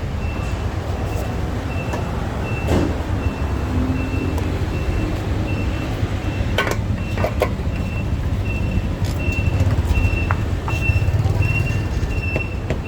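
Motorcycle riding in city traffic: a steady engine and road rumble, with a short high beep repeating about twice a second throughout and a few sharp knocks.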